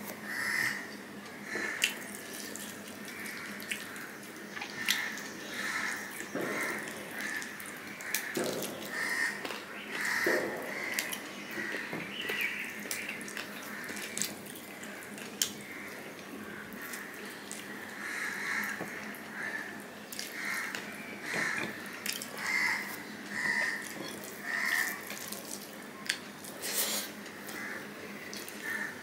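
Close-up eating sounds: chewing and wet mouth smacking of rice mixed with curry, eaten by hand, coming irregularly about once or twice a second, with soft clicks as fingers work the food on the plate.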